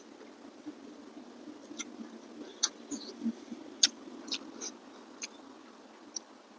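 A person chewing a mouthful of rice noodles close to the microphone: a low, soft chewing sound broken by irregular sharp wet mouth clicks and smacks, about seven of them.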